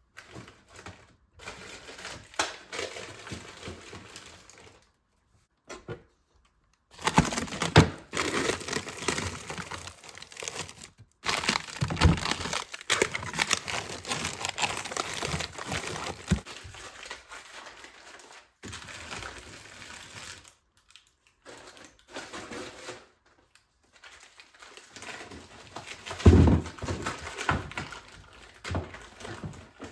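Packaging crinkling and rustling with scattered knocks, in short stretches broken by sudden silences, and a heavier thump near the end.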